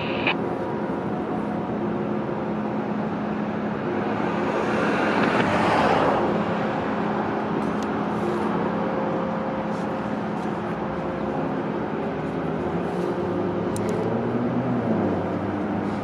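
Steady rumble of passing traffic and rail vehicles, with a steady hum, swelling and fading as something passes about five to six seconds in. A high squeal cuts off just after the start.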